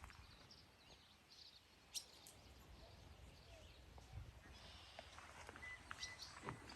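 Faint birdsong: scattered high chirps and a short held whistled note, over quiet outdoor ambience, with a single click about two seconds in and footsteps starting again near the end.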